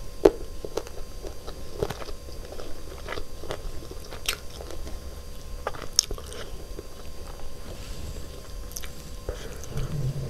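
A person chewing a mouthful of chicken biryani, with scattered short clicks and smacks of the mouth, the sharpest about a quarter second in and at about six seconds.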